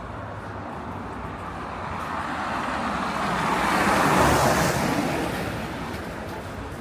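A car driving past close by: its engine and tyre noise swell, peak about four seconds in, then fade away.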